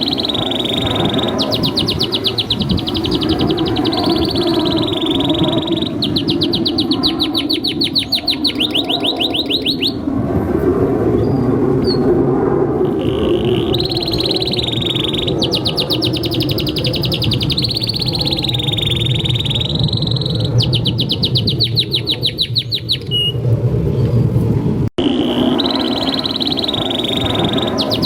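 Domestic canary singing a long song: phrases of very fast rolling trills alternating with held whistled notes, in several bouts with a pause of a few seconds in the middle. A steady low hum runs underneath, and the sound drops out for an instant near the end.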